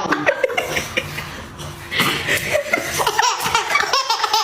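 Loud human laughter, hearty and continuous, starting abruptly.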